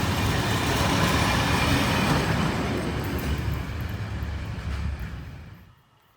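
A train running past on the rails, a loud, steady rumble that fades and then drops away sharply near the end.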